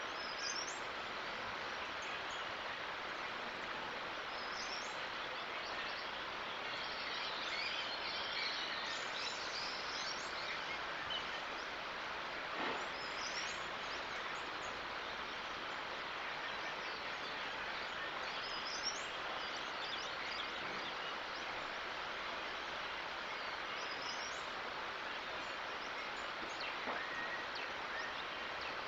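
Steady outdoor background hiss, with a bird giving short, high, rising chirps every four to six seconds.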